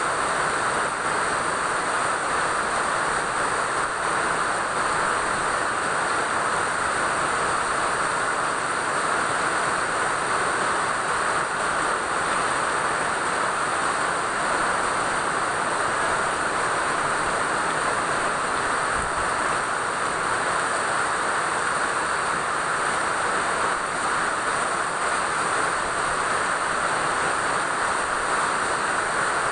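Steady rain falling: an even, unbroken hiss with no single drops or impacts standing out.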